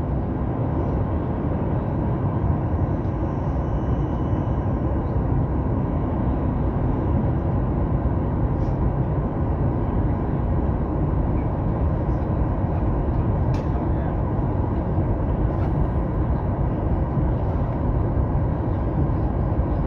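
Steady cabin noise of a Boeing 737 MAX-8 in flight, heard from a window seat: a constant rush of airflow and engine hum.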